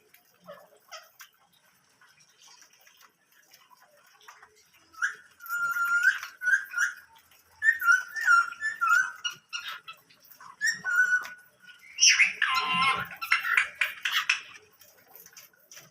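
Pet cage birds calling: repeated short chirping call phrases start about five seconds in, then a louder, harsher squawking burst comes near the end.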